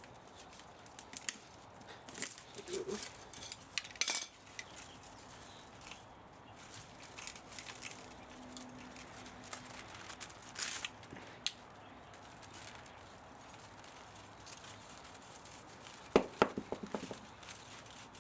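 Metal parts and hand tools clinking and scraping as an old spa pump motor is dismantled for scrap, in scattered short knocks and scrapes, with a quick run of louder ringing metallic clinks near the end.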